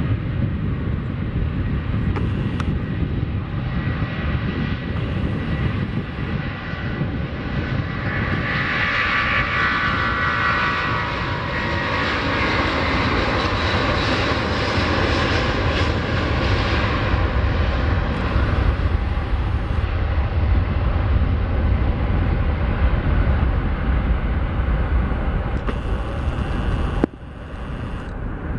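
Airbus A330-200's Pratt & Whitney PW4168A turbofans at takeoff power, a roar with a high whine that swells about a third of the way in, then a deep rumble that builds as the airliner takes off. The sound cuts off abruptly near the end.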